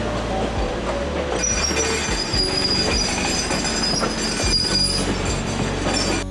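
Shay geared steam locomotive running on rails: a steady rumble and clatter, with a thin high-pitched wheel squeal joining about a second and a half in.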